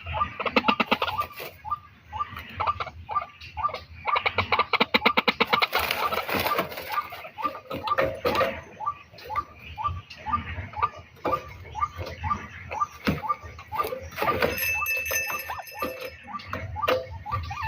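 A bird calling, short calls repeated in a steady series several times a second, with louder stretches of rapid chattering about a second in and again around four to six seconds in.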